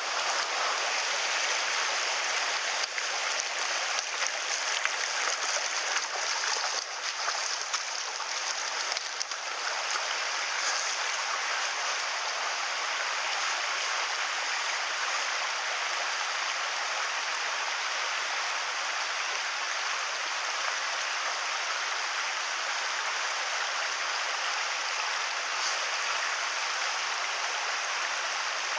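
Mountain stream water rushing steadily, with a few short knocks in the first ten seconds or so.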